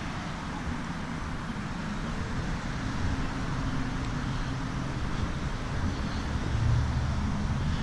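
Steady outdoor background noise: a low rumble like distant traffic under an even hiss, with no distinct events.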